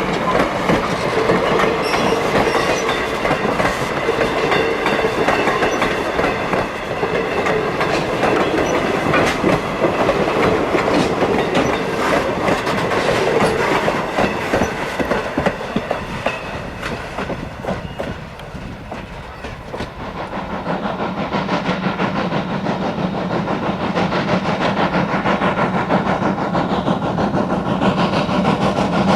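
Norfolk & Western 4-8-0 No. 475 steam train running past, its cars clattering over the rail joints. About two-thirds of the way through the clatter eases off and a steady low hum takes over.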